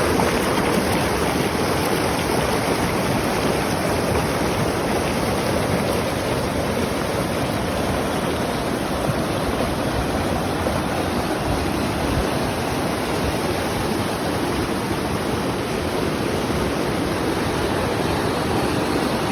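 Rushing water running steadily and unbroken, an even hiss and rumble with no let-up.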